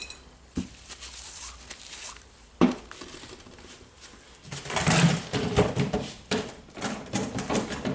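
Small metal parts of a Makita DHR202 rotary hammer being handled and set down during disassembly: scattered clicks and clinks, with a busy spell of clicking and rattling about halfway through.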